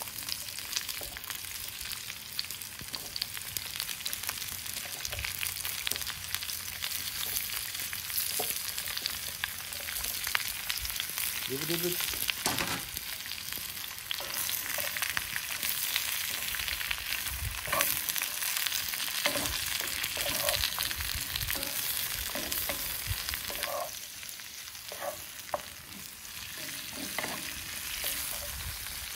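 Sliced vegetables sizzling steadily in a cast-iron skillet, with a wooden spatula scraping and knocking against the pan at scattered moments as they are stirred.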